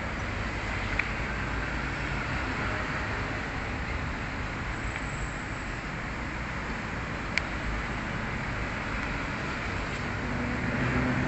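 Steady low background rumble, with two sharp clicks, one about a second in and one about seven seconds in.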